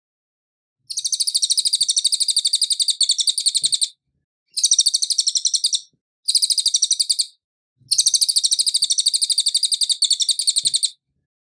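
Cililin songbird singing in four bouts of rapid, high-pitched trilling notes, each burst a fast even series lasting from about one to three seconds, with short silent gaps between. This is a clean recorded call of the kind used as a masteran for cage songbirds to learn.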